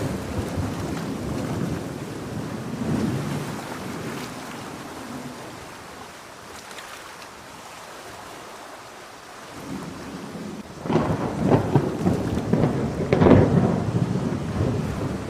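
Thunder rumbling over steady rain. A rumble dies away through the first half, and then louder thunder rolls in about eleven seconds in, with a second peak a couple of seconds later.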